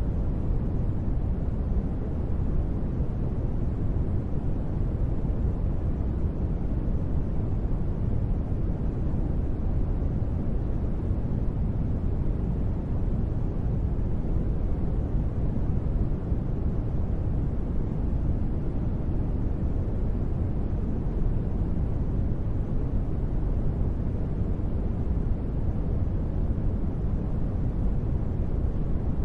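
Steady synthetic noise for relaxation, deep and rumbling, with most of its weight in the bass and little hiss, even and unchanging throughout.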